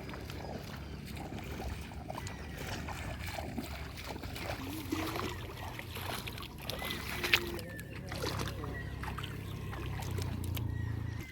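Outdoor ambience: a steady low rumble, with faint distant voices now and then and a sharp click about seven seconds in.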